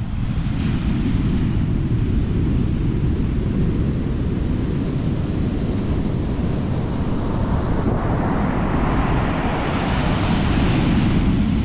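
Ocean surf under heavy wind rumble on the microphone; a wave builds and breaks in the second half, its hiss swelling to a peak near the end.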